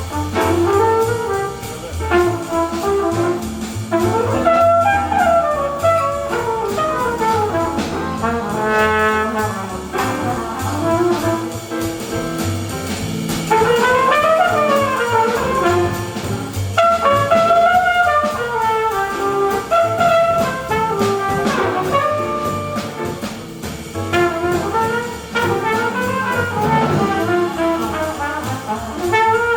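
Live jazz quintet playing, with a flugelhorn carrying a winding melodic line over piano, guitar, walking double bass and drums.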